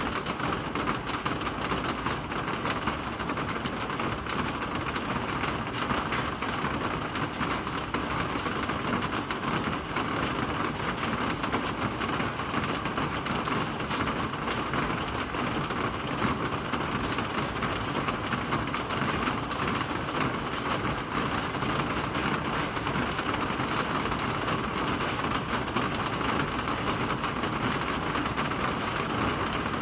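Steady rain falling: a dense, even hiss of many drops that does not let up.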